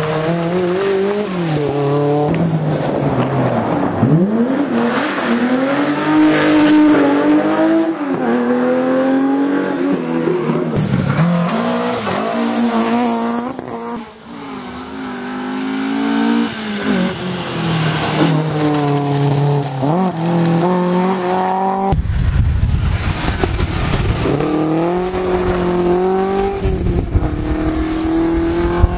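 Historic rally cars driven hard on a special stage, their engines revving high and dropping back again and again through gear changes and passes. A low rumble sits under the engine note over the last several seconds.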